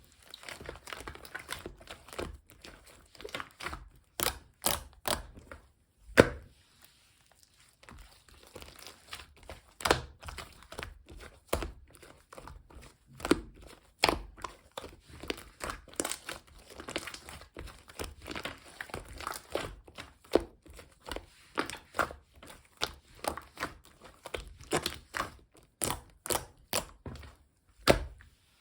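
Mixed slime being squished and pressed by hand, giving irregular sharp pops and crackles, a few of them much louder than the rest.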